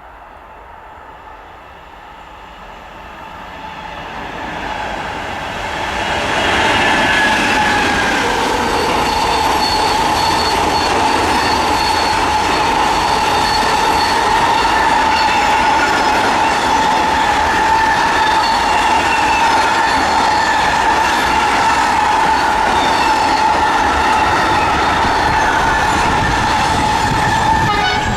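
A train approaches, growing louder over the first few seconds, then passes close by for the rest of the time. A steady high-pitched squeal runs over the rumble of the wheels.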